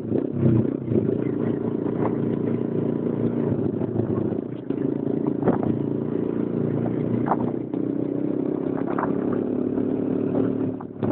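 Motorcycle engine running while riding along the road, its note dipping and shifting in pitch a few times, with scattered clicks and rattles.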